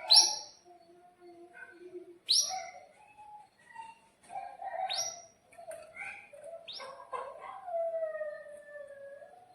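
Domestic canary singing: loud, sharp upward chirps about every two seconds over lower warbling notes, with a long gliding note near the end.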